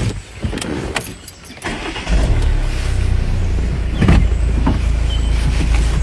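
Car engine starting about two seconds in and then running steadily with a low rumble, after a few scattered clicks; a single sharp knock stands out around four seconds in.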